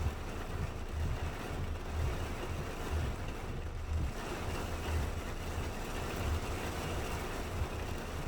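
Steady rain, a dense even hiss, with irregular low rumbling thumps underneath.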